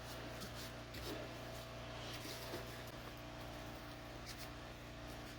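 Quiet room tone: a steady low hum with a few faint clicks and taps.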